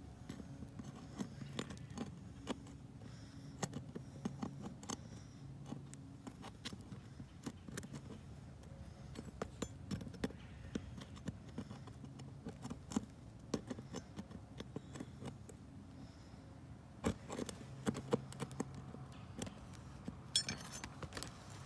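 Scattered light clicks, taps and scrapes, like small hard objects being handled, with louder clicks near the end, over a faint low hum that comes and goes.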